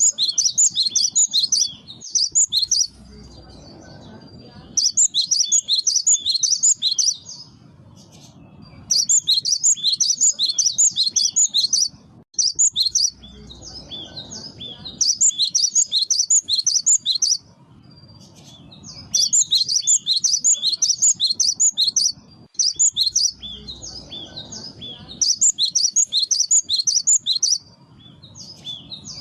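Cinereous tit (gelatik batu) song: bursts of rapid, high chirping notes about two seconds long, repeated every few seconds with short pauses between them.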